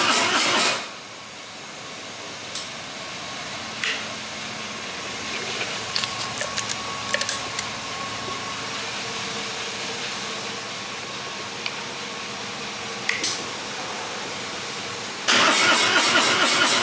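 Harley-Davidson Road Glide's electric starter cranking the Milwaukee-Eight V-twin without it catching. The cranking stops under a second in, a few light clicks follow, and cranking starts again near the end. The bike is failing to start even with jumper cables from a truck on the battery.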